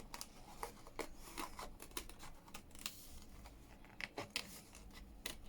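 Paper and card being handled, with light, irregular clicks and rustles.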